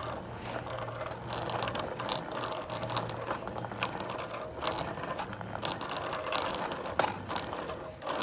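Bicycle freewheel hub ticking rapidly as the bike coasts, over the hum of tyres rolling on pavement.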